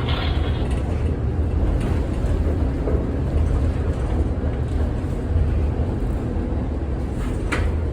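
1948 Philadelphia PCC streetcar rolling along the track: a steady low rumble of wheels and running gear, with one sharp click near the end.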